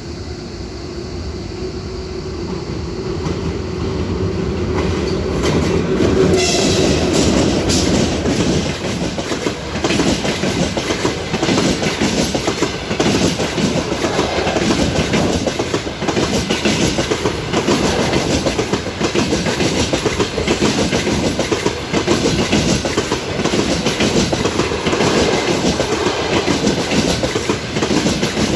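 Passenger train coming up and passing close by. It gets louder over the first several seconds with a steady hum, then the carriage wheels clack over the rail joints in a continuous rhythm as the cars go past.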